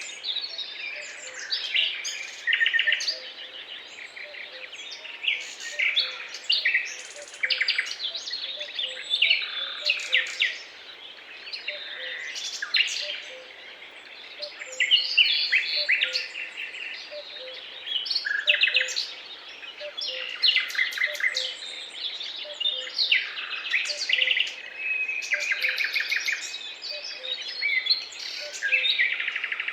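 Several birds singing and calling together in a daytime forest, a dense, overlapping mix of chirps and rapid trills over a faint steady background hum.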